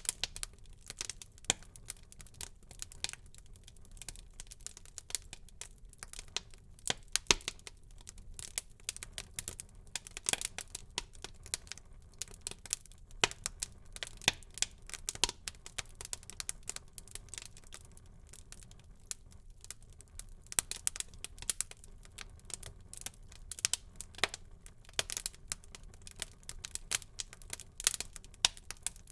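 Wood fire burning in a fireplace, crackling with many irregular sharp pops and snaps over a faint low hiss.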